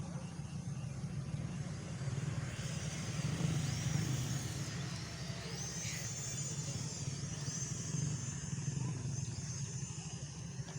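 High-pitched whine of the small electric motors of a homemade model airplane driven by TXD8S drone motors, rising and falling in pitch, over a steady low rumble.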